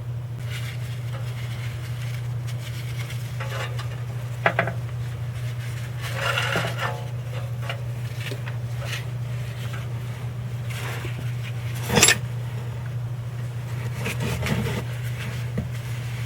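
Scattered metal clinks and scrapes of hand tools and fittings being worked on a truck's oil dipstick tube adapter, with a sharp clank late on. A steady low hum runs underneath.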